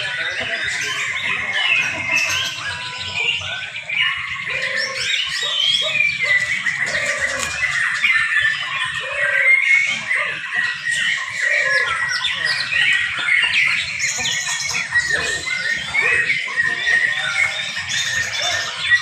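Several young white-rumped shamas singing at once: a dense, unbroken tangle of loud chirps, trills and whistles from competing birds.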